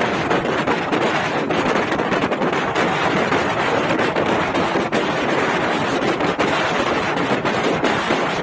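Steady, loud vehicle and road noise on a highway, peppered with rapid crackles, with wind buffeting the microphone.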